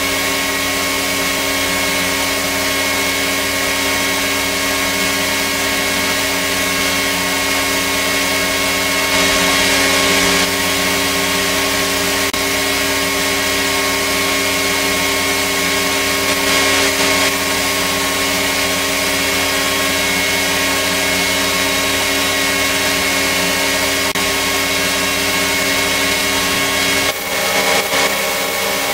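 Electric power tool motor running steadily: a continuous whine of several steady tones over an even hiss, briefly dipping near the end.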